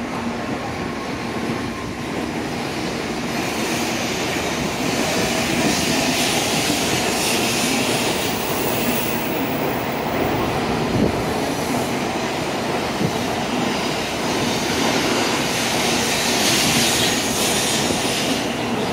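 N700A Shinkansen train departing, its carriages rolling past the platform as it picks up speed. The steady rushing noise grows louder over the first few seconds, then holds.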